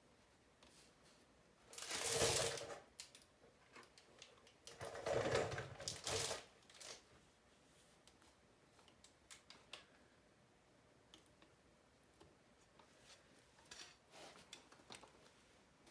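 Hand-tool work on a dirt bike's carburetor: light clicks and knocks of tools and small parts, with two louder scraping noises about two and five seconds in.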